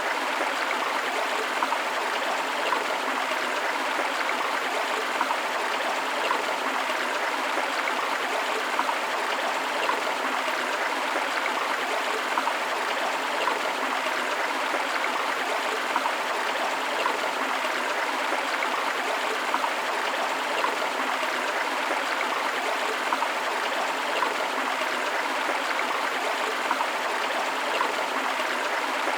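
Flowing river water rushing and splashing steadily over rocks, a continuous wash of water noise with small gurgles and splashes throughout.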